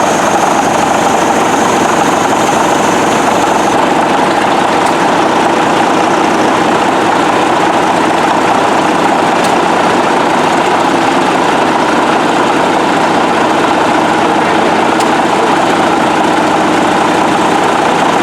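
Engine running steadily at an even speed. A faint high whine over it stops about four seconds in.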